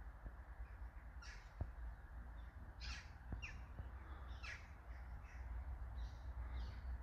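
Birds calling faintly: about eight short calls that fall in pitch, spaced irregularly, over a steady low rumble.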